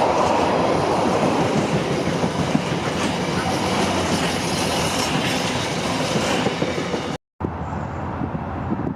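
Freight train wagons rolling past, wheels clattering over the rail joints in a steady rhythm. About seven seconds in it cuts off abruptly, giving way to quieter outdoor background noise.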